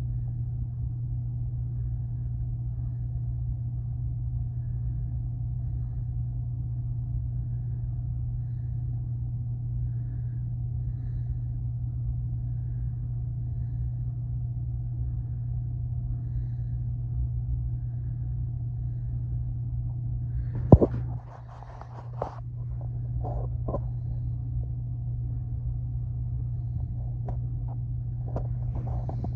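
Steady low rumble of a freight train heard from indoors through a window. A sharp click about two-thirds through is followed by a brief drop in the rumble and a few light knocks.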